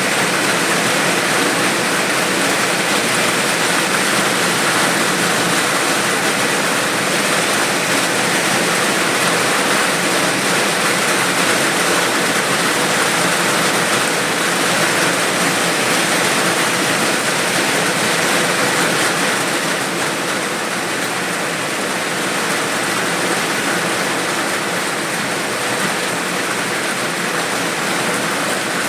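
Rain falling steadily: a dense, even hiss with no single drops standing out. It eases slightly about twenty seconds in.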